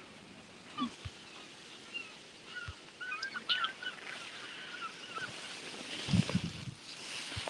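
Birds chirping, a quick run of short calls through the middle, over faint outdoor background noise, with a few dull low thumps near the end.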